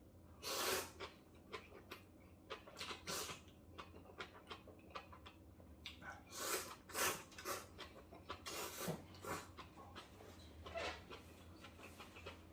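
Eating sounds from a bowl of mixed instant ramen: a string of short, irregular slurps and smacks of noodles being sucked up and chewed, the loudest about half a second in and again around six to seven seconds in.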